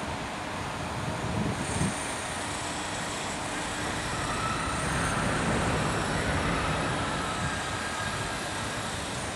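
Steady rumble and hiss of train noise at a railway station, with a faint whine that rises and fades in the middle and a few low thumps near the start.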